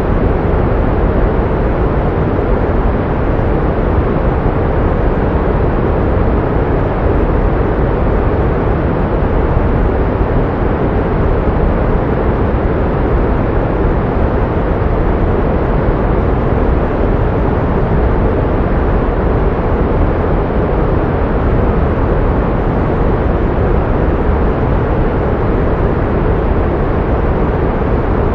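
Steady, unchanging pink noise: an even hiss-like rush weighted toward the low end, with little high treble.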